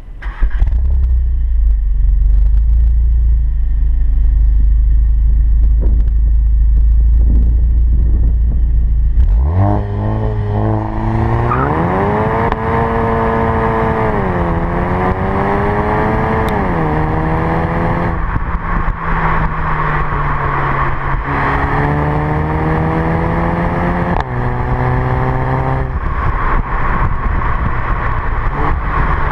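VW Golf 7 GTI Performance's turbocharged 2.0-litre four-cylinder engine and exhaust: a deep steady rumble at first, then about ten seconds in the engine revs up, its note rising and falling several times and holding steady in between.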